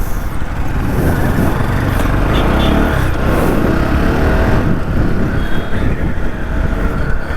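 Motorcycle riding along a road: a steady mix of engine and wind noise.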